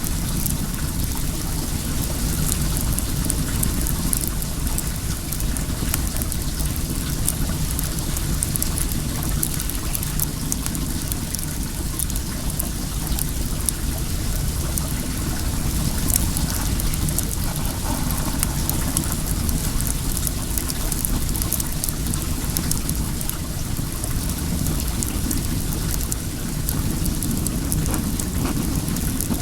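Well water running steadily, with a wood bonfire crackling over it in many small, sharp ticks.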